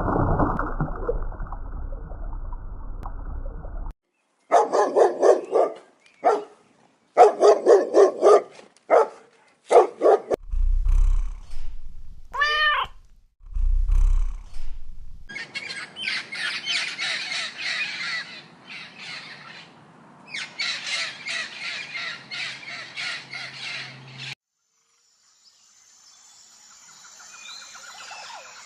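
A string of bird calls: a run of harsh repeated caw-like calls, then a long stretch of high chirping, with low thumps and a single rising whistle in between.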